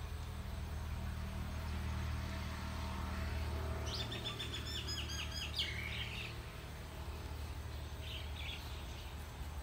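A songbird calling: a quick run of about ten high chirps a few seconds in, then a short chirp near the end, over a steady low hum.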